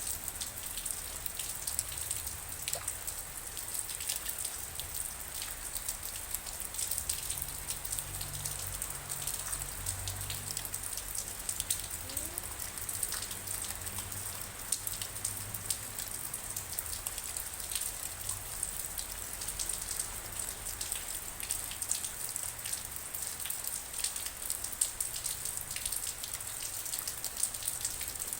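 Steady rain falling, with many individual drops ticking close by over a constant high hiss.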